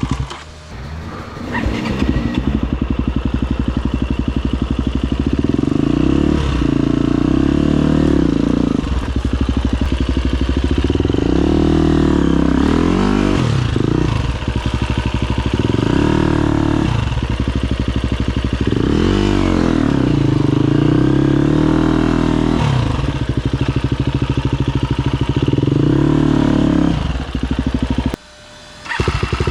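Husqvarna FE250 enduro motorcycle's single-cylinder four-stroke engine revving up and falling back again and again, every couple of seconds, as the bike is worked over rough ground. The engine drops off briefly about a second in and again near the end.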